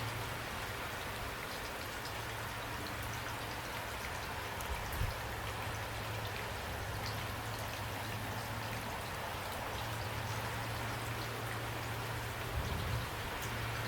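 Steady rain, with individual drops ticking over an even hiss. A low rumble comes and goes underneath, and there is a brief soft thump about five seconds in.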